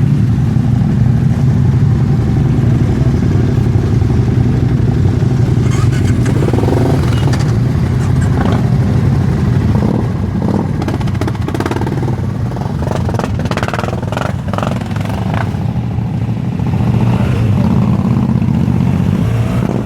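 Many motorcycle engines running together, a loud steady low drone. Scattered short knocks and rattles sound through the middle stretch.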